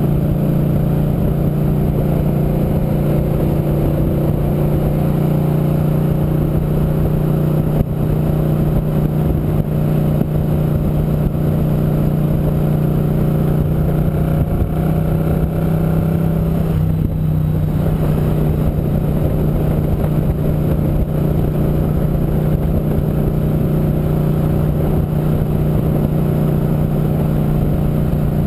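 Motorcycle engine running steadily while riding, heard from on the bike, with a brief change in the engine note about two-thirds of the way through.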